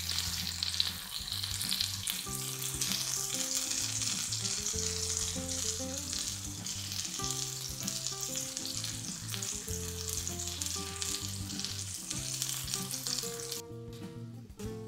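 Tomato slices, green peppers and mushrooms sizzling in hot oil in a frying pan, a steady crackling hiss. The sizzle cuts off sharply near the end, leaving only soft background music.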